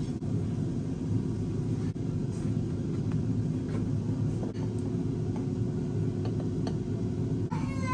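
Steady low rumble with a few faint clicks. Near the end a baby's high-pitched voice begins, gliding down in pitch.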